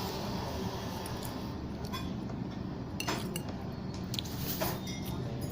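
Spoon clinking against a bowl a few times, sharp separate clinks over steady low background noise.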